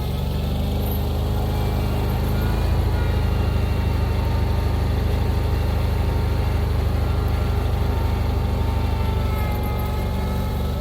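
A vehicle's engine running steadily, picking up a little in loudness and pitch about two and a half seconds in and easing back near the end.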